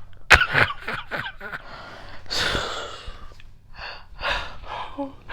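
A woman laughing breathlessly: gasps and wheezy breaths with a long breathy rush in the middle and a few short squeaks near the end, laughing hard enough that her cheeks hurt.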